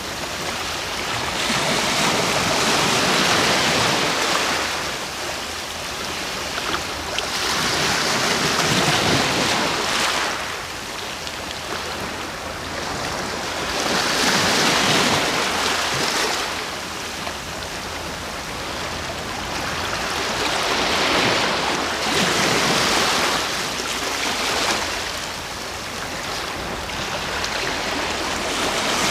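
Ocean waves breaking on the shore: a wash of surf that swells and ebbs in turn, about every six seconds.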